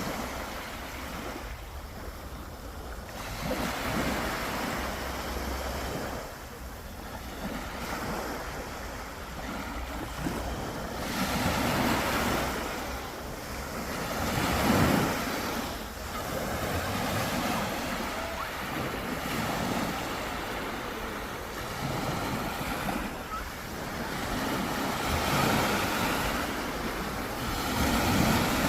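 Sea waves breaking and washing on the shore, the surf swelling and falling back every few seconds, with wind rumbling on the microphone.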